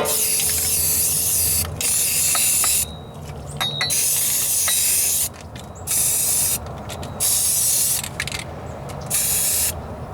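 Aerosol spray can of primer hissing in about six bursts with short pauses between. The first and third bursts are the longest, and the can is spraying a build coat onto a patched floor pan.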